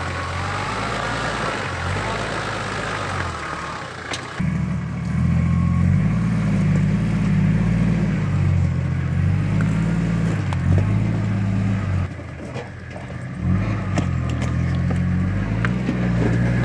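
Four-wheel-drive vehicle's engine working hard as it crawls over rocks, the revs rising and falling with the throttle. It comes in louder about four seconds in and eases off briefly near the twelve-second mark.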